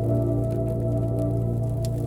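Ambient healing music: a steady low drone with soft held tones layered above it, and scattered small crackling clicks like a campfire.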